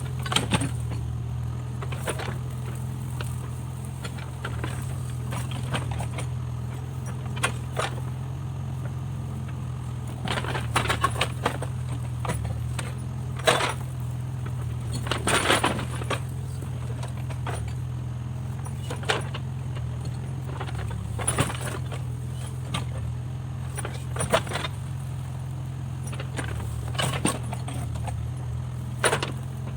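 Backhoe loader's diesel engine running steadily, with irregular sharp metallic clanks and knocks from the machine at work.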